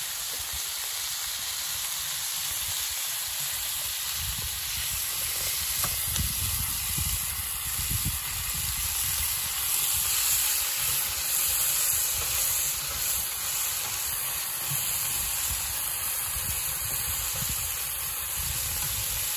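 Pork belly sizzling on an iron griddle over a wood fire: a steady frying hiss, with an uneven low rumble underneath.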